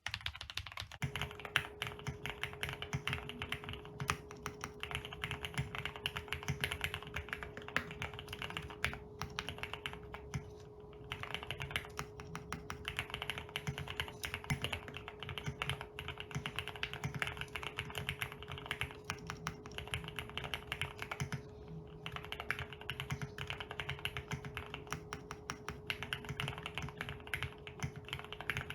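Fast, continuous typing on an enthusiast custom keyboard, many keystroke clacks a second, with short breaks about 11 and 22 seconds in. A steady faint hum runs underneath from about a second in.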